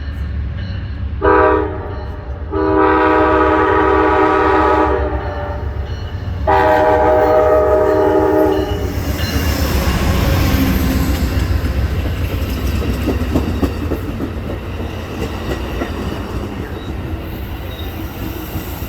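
Amtrak P42DC diesel locomotive's air horn sounding a short blast, then two long blasts, as the train approaches. Then the train passes with a steady rumble and wheel clatter over the rails.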